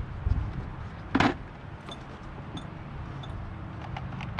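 A sharp knock about a second in, then a few light clicks, over a low steady rumble: parts and tools being handled during work on the tractor.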